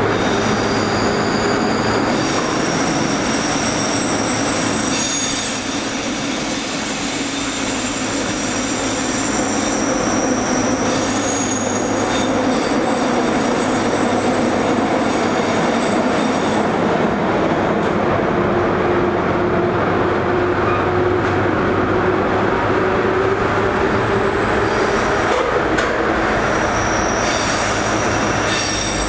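JR Kyushu 103 series electric train running through a subway tunnel, its loud running noise steady throughout. High-pitched wheel squeals come in during roughly the first third and again near the end.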